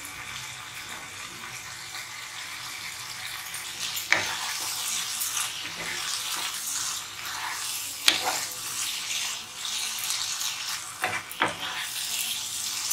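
Sev and tomato curry sizzling in a nonstick kadai while a wooden spatula stirs it, with a few sharp clicks of the spatula against the pan, the first about four seconds in.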